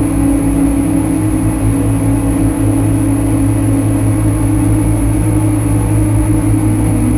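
Dense, steady drone from a Lyra-8 analogue synthesizer: sustained low humming tones over a rough, noisy bed, with thin high whistling tones held above. It stays the same throughout.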